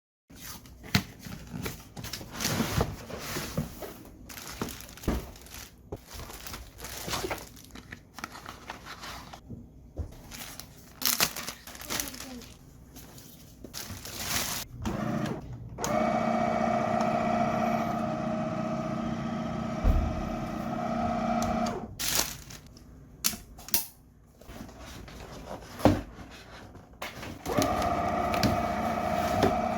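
Plus Minus Zero XJM D010 wet-mop cleaner's motor running with a steady hum, starting about 16 seconds in, stopping about 22 seconds in, then starting again near the end. Before that, scattered clicks and knocks as the mop is handled.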